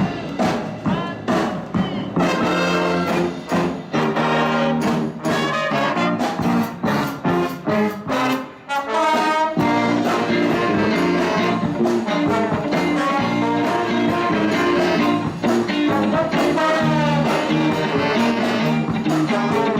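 Live band music with a horn section: short, punchy stabs for the first half, a brief break, then continuous sustained playing.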